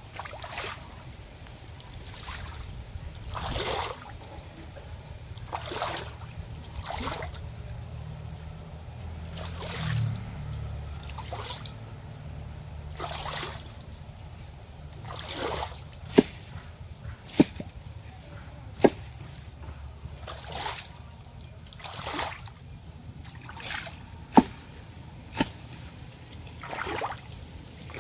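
Shallow river water splashing and sloshing in short bursts every second or two, with a few sharp clicks in the second half, over a steady low rumble.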